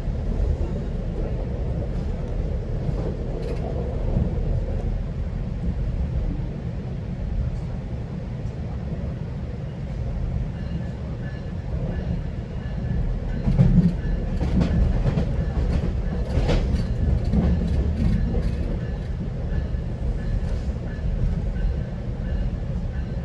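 GO Transit commuter train rolling along the track, heard from on board: a steady low rumble, with a run of clicks and knocks from the wheels over the rails in the second half.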